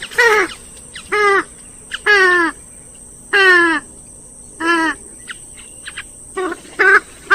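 Grey-headed swamphen calling: a run of about eight loud, nasal, pitched calls, each roughly half a second long with a wavering pitch. The calls come about once a second, and a few shorter ones follow close together near the end.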